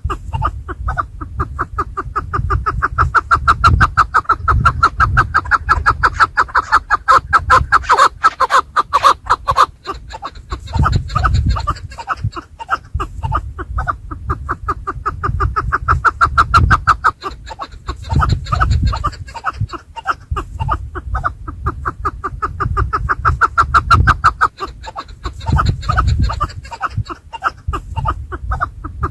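Chukar partridges calling: fast runs of clucking notes that come in repeated bouts of several seconds, over a low rumble.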